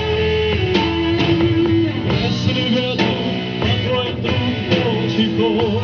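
Rock band playing live: guitar and drum kit with a singer's held, wavering notes.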